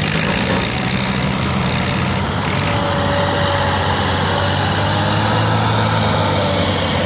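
Allis-Chalmers WC tractor's four-cylinder engine running hard under load as it pulls the sled, its pitch dropping lower a couple of seconds in as it lugs down.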